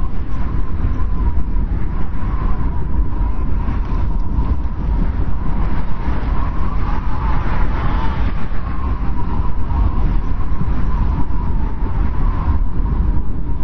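Blizzard wind blowing hard and steadily: a deep rumble with a thin whistle that wavers up and down through it.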